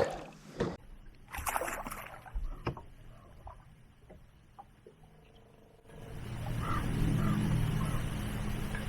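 A couple of short bursts of noise and clicks in the first two seconds, then a fishing boat's motor starts running about six seconds in, building to a steady low hum.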